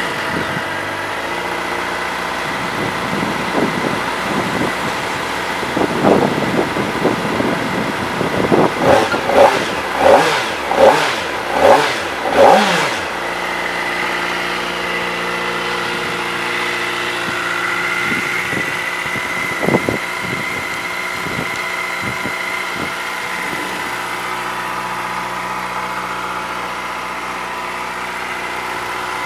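A 2024 Kawasaki Ninja ZX-4RR's 399 cc inline-four idles just after starting. In the middle comes a run of short throttle blips, about five in quick succession, each revving up sharply and dropping straight back. One more blip follows later before it settles to a steady idle.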